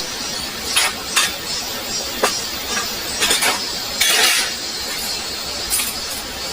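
Steady heavy rain, with several sharp clinks of hard objects knocked together and a longer clattering rattle about four seconds in.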